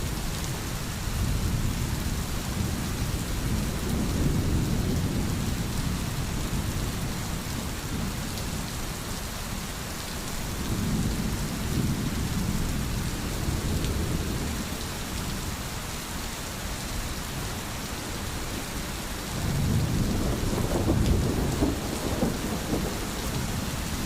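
Steady rain with low rolling thunder that swells and fades several times; the loudest rumble comes near the end.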